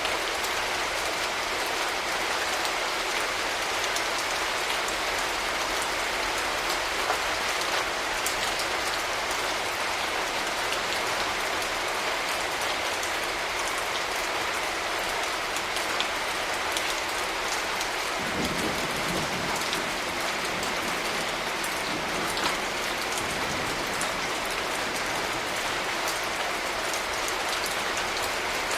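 Steady rain falling, an even hiss with single drops ticking through it. About two-thirds of the way in a low rumble swells for a few seconds, then fades and returns briefly: distant thunder.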